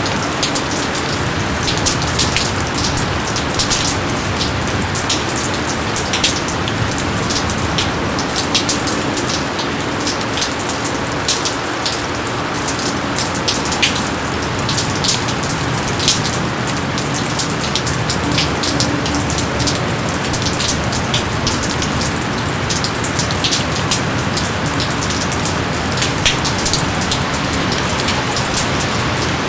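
Steady heavy rain falling, an even hiss with many close, sharp drop impacts ticking through it.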